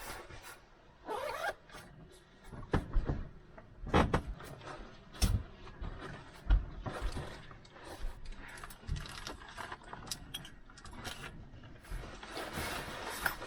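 Clothing rustling with scattered clicks and knocks of buckles and clips as a life vest and harness are put on and fastened, with a few louder thumps in the middle.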